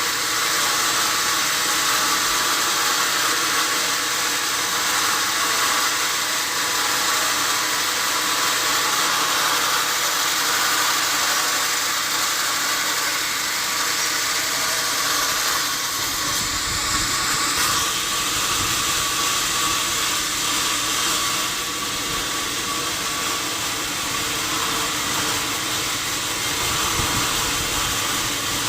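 Sawmill saw running steadily, a dense hiss with a faint machine hum under it. A deeper rumble joins a little past halfway.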